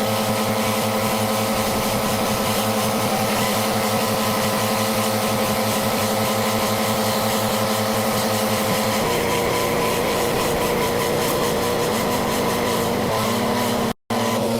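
Engine-driven pressure washer running steadily under the hiss of its water spray. The engine note shifts about nine seconds in, and the sound cuts out for an instant near the end.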